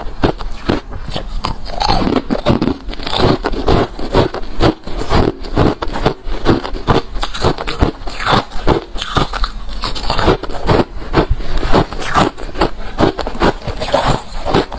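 Refrozen crushed white ice being bitten and chewed: a rapid, continuous run of sharp, crunchy crackles and cracks.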